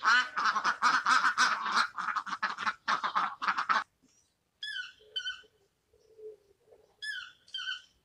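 A group of white domestic ducks quacking rapidly and loudly for about four seconds. After a short pause, a toucan gives yelping calls, short falling notes in pairs, twice.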